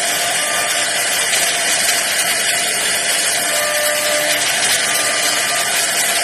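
CNC router carving a wooden bed panel: the spindle's bit cutting wood with a steady, loud hiss and a few faint thin whines that come and go.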